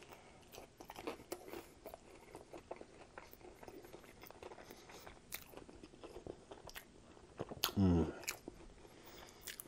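Close-miked chewing of a crispy, flour-dredged fried chicken tender dipped in barbecue sauce: crunching bites and wet mouth clicks, with a short hum of the voice about eight seconds in.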